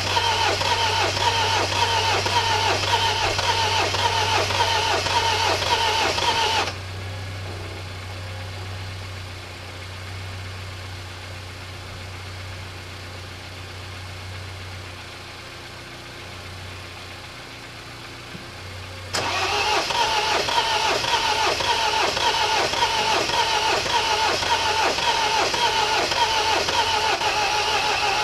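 Starter motor cranking the MINI R56's 1.6 HDi DV6 diesel engine, which does not catch. The cranking stops about seven seconds in, leaving a quieter low hum, and starts again about twelve seconds later.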